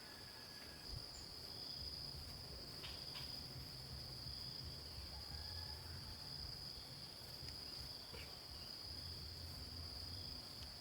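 A continuous high-pitched insect drone, steady throughout, with a few faint short chirps and a low rumble underneath.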